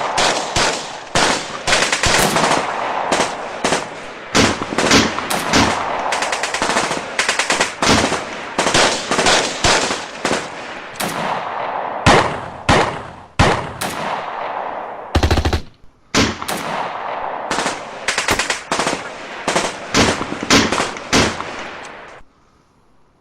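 Gunfight sound effect: many overlapping gunshots, single shots mixed with rapid bursts of automatic fire, each with an echoing tail. The firing stops abruptly about a second before the end.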